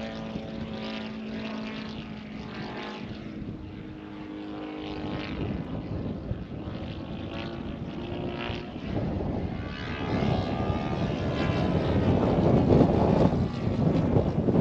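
Laser 200 in-line twin four-stroke glow engine of a radio-controlled model warplane in flight. For the first few seconds its engine note is steady, then it fades, and from about ten seconds in it grows much louder and noisier. The engine is not running right: its tuning is off.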